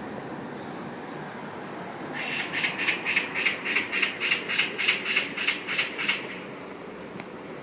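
Magpie giving its harsh chattering rattle, a run of about fourteen rapid 'chak' notes a couple of seconds in, lasting about four seconds.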